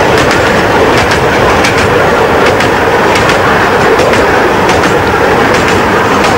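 Miniature railway train running along the track, its wheels clicking steadily over the rail joints.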